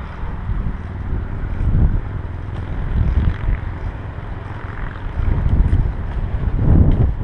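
Wind buffeting a camera microphone while riding a bicycle: a loud, gusting low rumble that swells and fades several times.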